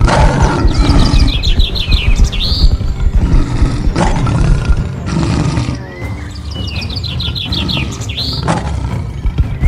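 Bird song from a nature ambience track: a quick trill of high chirps ending in a rising whistle, heard twice about six seconds apart, over background music with a low pounding underneath.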